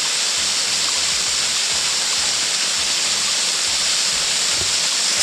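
Tall waterfall cascading down a hillside: a steady, even rush of falling water.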